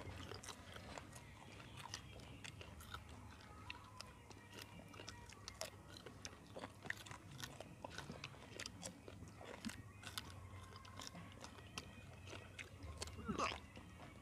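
Faint crunching and chewing as several people bite into raw green chillies: a scatter of small crisp clicks.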